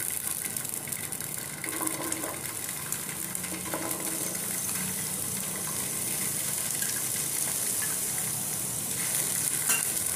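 Boiled chickpeas sizzling in hot oil on a flat non-stick pan as they are spooned in, the sizzle growing steadily louder as more go in.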